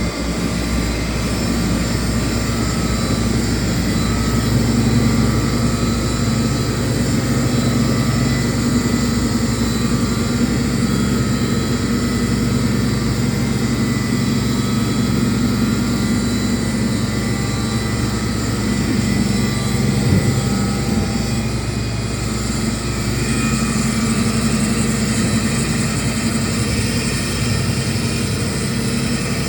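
Steady machine drone of a CNC router running, a low hum with an even noise over it that stays level throughout.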